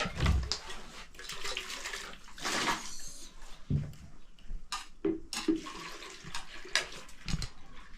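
Water splashing and sloshing in irregular bursts, with several sharp knocks and handling noises.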